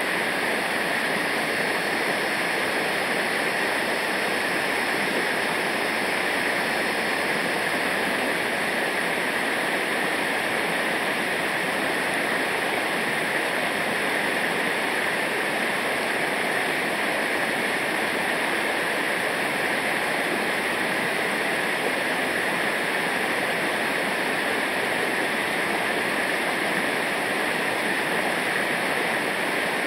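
Rushing river water pouring over rapids, a steady, unbroken rush.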